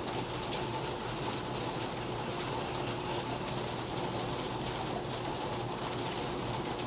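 Rain falling steadily: an even hiss of rain with scattered sharp ticks of drops hitting a surface.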